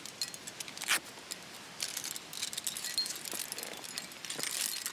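Metal climbing hardware, carabiners and gear, clinking and jangling in short irregular clicks, with a louder clink about a second in.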